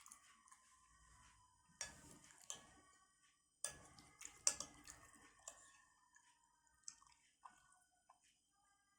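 Close-up wet chewing and mouth sounds of someone eating siomay and batagor in peanut sauce, in two short bursts of clicks and smacks about two and four seconds in, with a few fainter clicks after.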